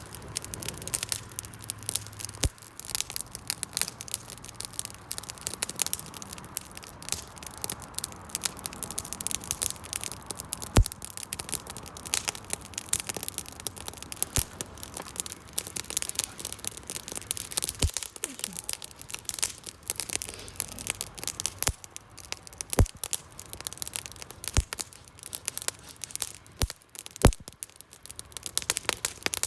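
Wood fire crackling, with a dense run of small snaps and a few louder single pops.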